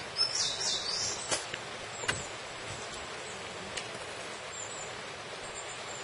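A bird chirping, a quick run of short high calls in the first second or so, over a steady background hiss; a few sharp clicks follow.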